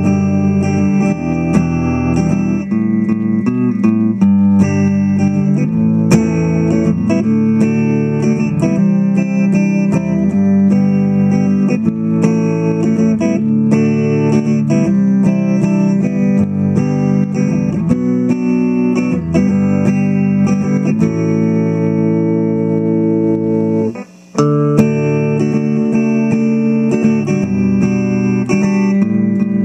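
Guitar music: a continuous run of plucked guitar notes, with a brief gap about four-fifths of the way through.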